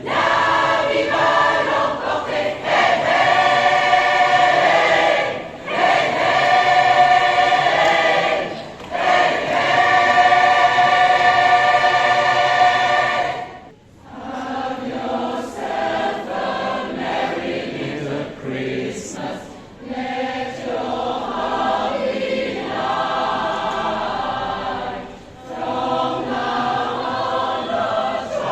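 A choir singing, many voices in sustained held chords broken by short pauses between phrases, with a brief dip about fourteen seconds in before the singing resumes more softly.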